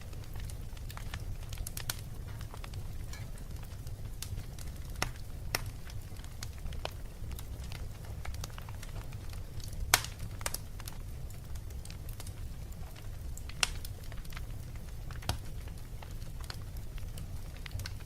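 Wood fire crackling in a fireplace: irregular sharp pops and snaps, the loudest about ten seconds in, over a steady low rumble.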